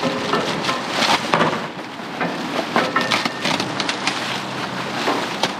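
Rummaging through a dumpster: rustling trash with objects knocking and clattering against each other, the knocks coming irregularly throughout.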